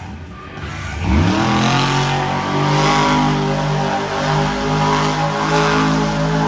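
Monster truck engine revving up about a second in, then held at high revs in a loud, steady note with slight wavers.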